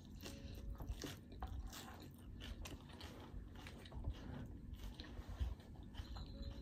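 A person biting into and chewing a forkful of leafy salad, a run of irregular crisp crunches.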